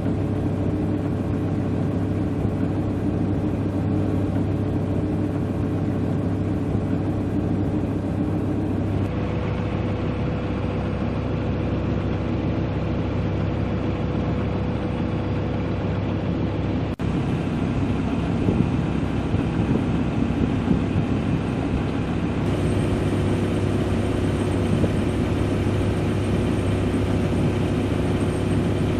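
A sailing yacht's engine runs steadily while motoring, a constant low drone whose tone shifts abruptly a few times.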